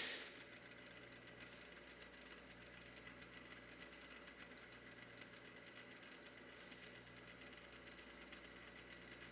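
Vintage Panasonic F-1206 12-inch table fan running steadily on its low speed: a faint, even motor hum with a light regular flutter from the blades. A short burst of noise sounds right at the start.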